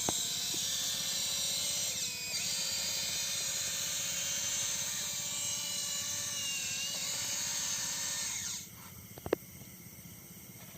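Kubota DC-93 combine harvester's diesel engine and machinery running with a steady high whine. The pitch dips slightly twice, and the sound cuts off abruptly about eight and a half seconds in, followed by a single click.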